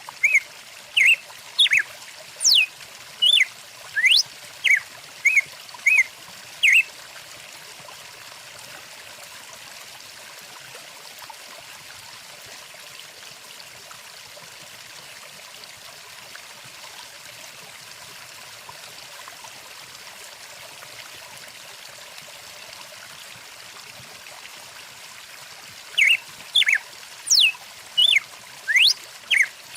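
Stream water running as a steady rush, with songbirds calling over it: loud, quick rising whistles and short chirps for the first seven seconds or so. The birds fall silent, then start again about 26 seconds in.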